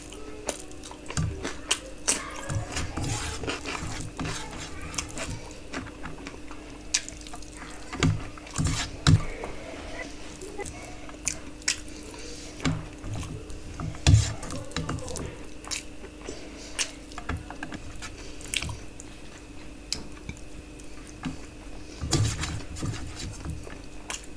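Close-up wet chewing and lip-smacking of a mouthful of rice and curry eaten by hand, with many sharp, irregular mouth clicks and soft thuds.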